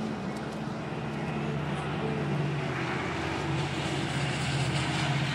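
Passenger train passing: a steady diesel locomotive drone with the rumble of wheels on the rails, growing a little louder and hissier from about three seconds in.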